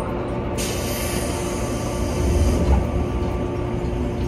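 Train at a platform with a steady low rumble and hum. About half a second in, a sudden hiss of released compressed air cuts in and fades over the next few seconds, typical of a train's air brakes venting. The low rumble swells briefly near the middle.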